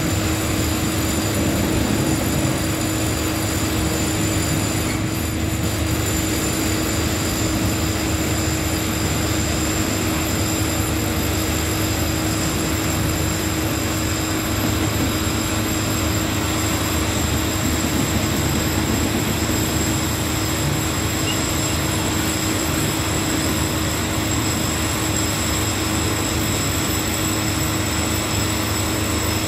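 Freight train of cement tank wagons rolling past on the tracks, mixed with a steady mechanical drone that carries a constant high-pitched whine.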